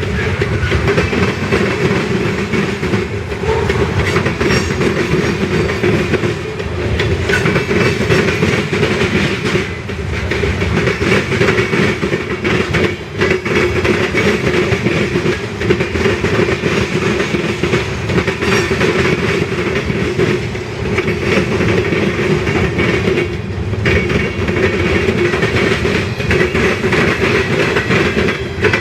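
Freight cars rolling past in a long train, their steel wheels clacking over rail joints in a continuous loud rumble.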